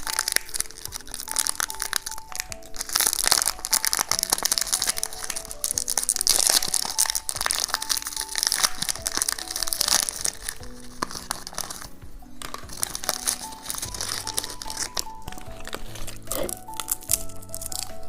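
Crinkling of a chocolate's wrapper being handled and opened, busiest for about the first twelve seconds and then sparser, over light background music with a simple melody.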